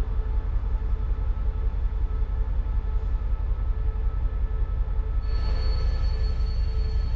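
Container wagons of a long freight train rolling past with a steady low rumble of wheels on rail. About five seconds in, a thin, high wheel squeal sets in and holds.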